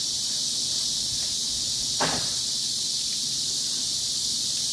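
Cicadas buzzing in chorus: a steady, high, unbroken buzz, with one short click about two seconds in.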